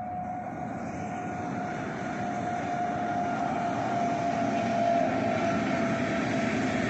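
Approaching train, its rumble growing steadily louder, with a steady whine that falls slightly in pitch.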